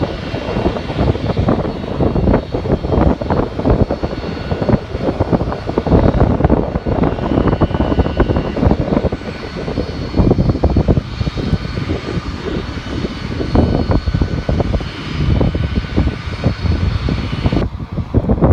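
Jet airliner engines running with a steady high whine, nearly drowned by heavy wind buffeting on the phone's microphone; the whine drops out abruptly near the end while the wind noise continues.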